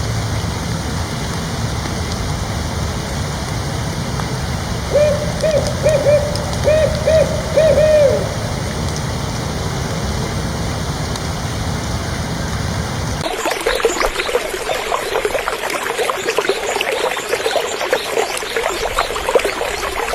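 A steady rushing noise, over which a bird gives a quick run of about eight short hoots a few seconds in. About two-thirds of the way through the sound cuts abruptly to the busy chirping of many small birds.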